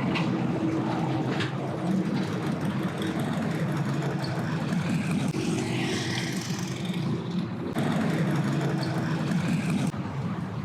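Motor engine running steadily with a low hum, over a wash of wind and water noise.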